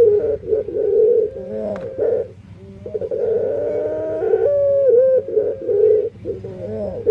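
Barbary dove (burung puter) cooing in rough, warbling phrases, with a short break about two seconds in and again near the end. The owner finds the coo unusual, unlike other doves, and wonders whether it is a defect.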